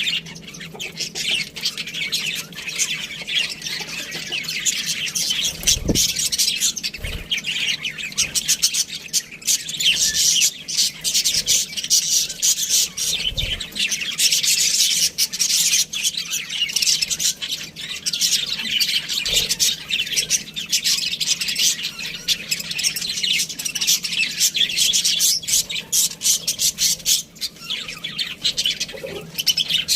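Budgerigars chirping and chattering without a break: a dense run of rapid, high chirps and squawks. A few soft low thumps sound under the chatter about six, seven and thirteen seconds in.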